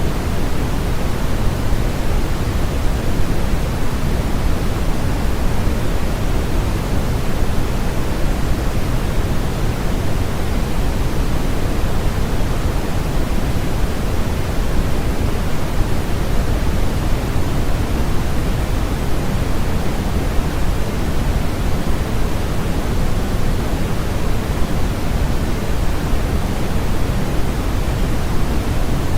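Steady generated noise from a sleep-aid white-noise track: an even, unbroken hiss with no events, heavier in the low end.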